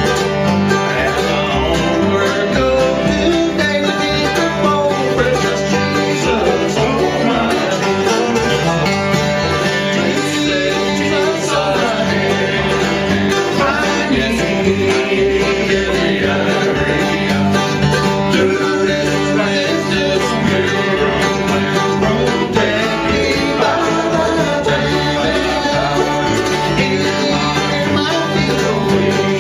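Bluegrass band playing live: plucked acoustic strings over a steady beat, with a voice singing over it.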